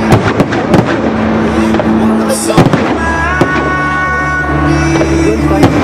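Aerial fireworks bursting and cracking in quick, irregular bangs over held orchestral music.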